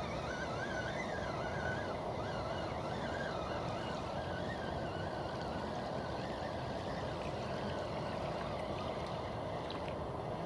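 Steady rushing outdoor noise of the riverbank, with a bird singing a continuous warbling song over it that fades out a little past halfway.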